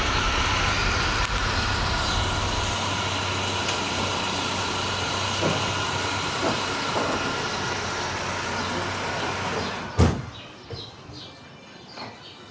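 A loud, steady mechanical drone with a low hum and a few faint high tones. It stops abruptly with a sharp click about ten seconds in, and much quieter sounds follow.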